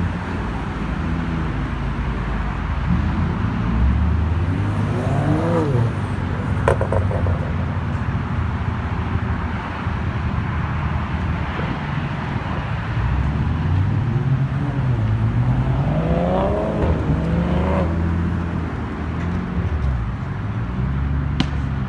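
Car engine running over a steady low rumble. Its pitch rises and falls as it speeds up and eases off, once about four seconds in and again around fifteen to eighteen seconds in. There are a couple of brief sharp clicks.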